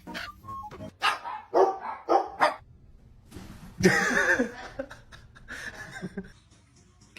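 A dog barking and yipping: a quick run of short barks, then a louder, longer bark about four seconds in, and a few softer ones after.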